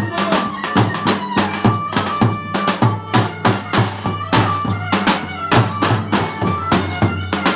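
Zonguldak folk dance tune (oyun havası) played live: a drum keeps a steady quick beat of about three to four strikes a second under a sustained melody line.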